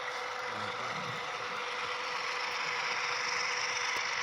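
HO scale model trains running on the layout, a steady mechanical hum with a constant whine.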